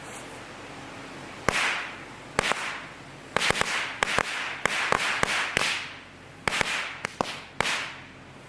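About fifteen sharp, loud knocks at irregular intervals, some in quick pairs, each with a short ring after it.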